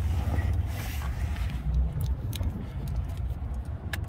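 BMW M5 Touring's 3.8-litre straight-six idling just under 1,000 rpm, a steady low rumble heard from inside the cabin, with a few faint clicks.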